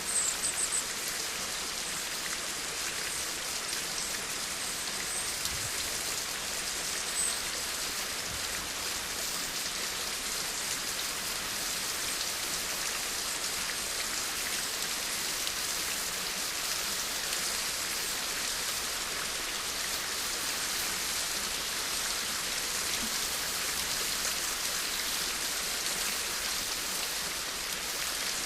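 Steady rain falling, an even hiss of many drops, with a few brief high chirps in the first second and once more about seven seconds in.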